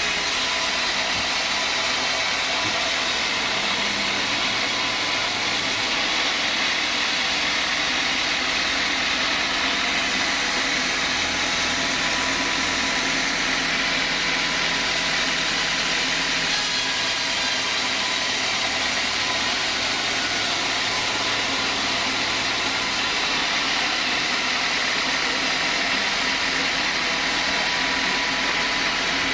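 Sawmill saw machinery running steadily with a dense, even noise that never pauses.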